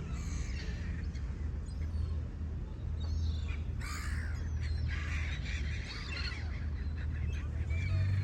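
Seagulls calling repeatedly in short harsh calls, over a steady low rumble.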